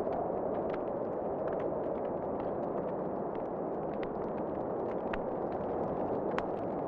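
Wood fire in a fireplace crackling, with irregular sharp pops and snaps scattered through, over a steady rushing of wind that swells slightly.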